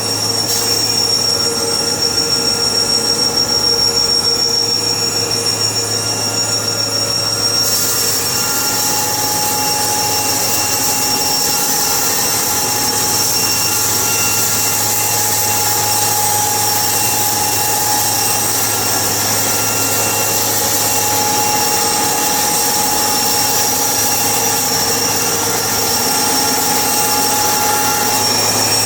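Sawmill saw running steadily with a high-pitched whine and squeal; a louder hiss comes in about eight seconds in and carries on.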